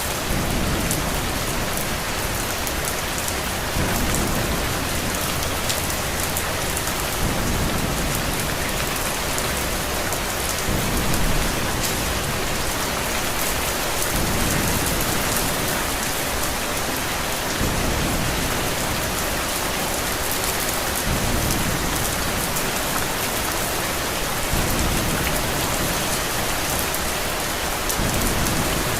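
Steady rain hiss, with a low rumble that swells and fades about every three and a half seconds.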